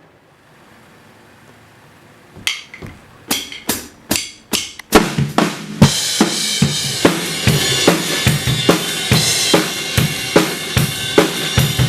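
Drum kit played: a few separate hits about two and a half seconds in, then a steady beat with cymbals from about five seconds in.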